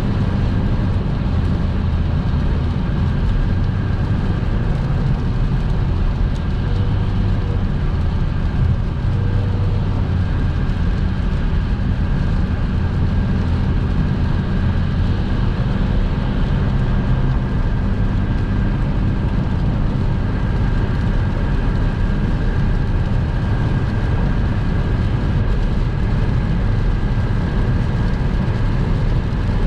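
Car driving at motorway speed on a rain-wet road: steady tyre and road noise with a low engine hum.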